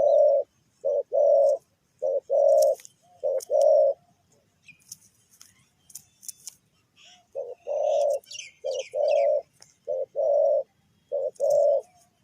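Spotted dove cooing: short phrases of deep, paired coo notes repeated in two bouts, with a pause of about three seconds between them. Faint high chirps of small birds sound above.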